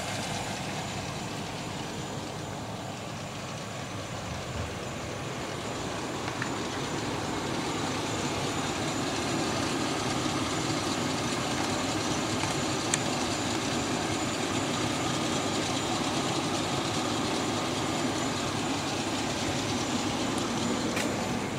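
A car engine idling steadily, an even running sound with no change in speed.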